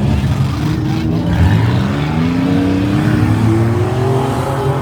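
Several demolition derby vehicles' engines running hard at once, with a steady low rumble. About two seconds in, one engine revs up, its pitch rising for a couple of seconds.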